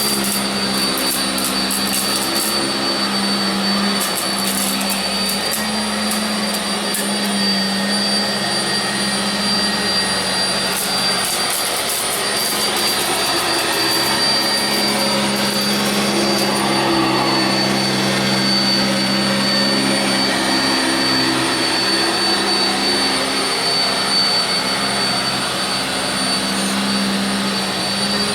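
Sanitaire SC679j upright vacuum cleaner running steadily on carpet: a continuous motor drone with a high whine on top. Short clusters of faint clicks come through now and then.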